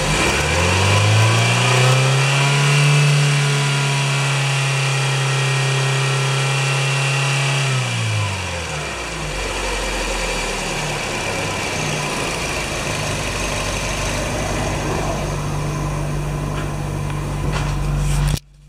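Hyundai Getz 1.4-litre G4EE DOHC 16-valve four-cylinder engine revved up over about two seconds and held at high revs for about six seconds. It then drops back to a steady idle, and the sound cuts off suddenly near the end.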